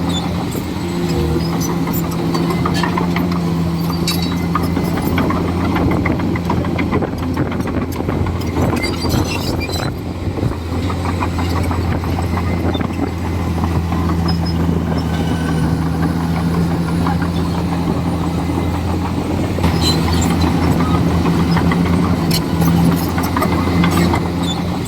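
Komatsu D41E bulldozer's diesel engine running steadily under work, with scattered clicks and knocks over it. The engine grows louder about 20 seconds in.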